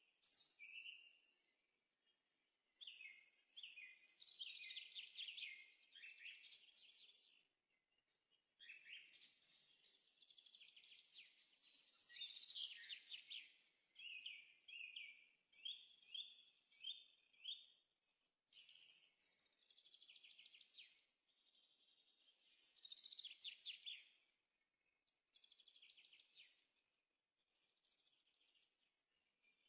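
Songbirds singing faintly: busy phrases of quick, high chirping notes, broken by short pauses.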